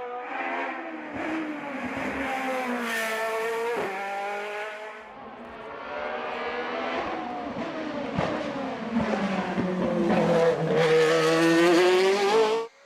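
A hill-climb racing car's engine working hard up the course, its pitch falling and rising with the gear changes and the throttle. It grows loudest near the end as the car comes close, then cuts off abruptly.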